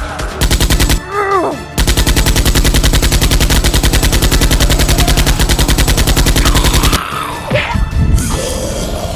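Rapid automatic gunfire sound effect, dubbed over a toy-blaster fight: a short burst, then about five seconds of continuous fire that cuts off suddenly. Between the two, a short cry falling in pitch.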